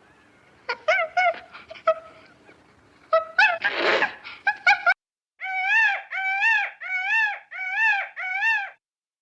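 Short high-pitched animal calls: a few scattered cries and a brief noisy burst, then five near-identical rising-and-falling calls in quick succession, about two a second, before the sound stops suddenly.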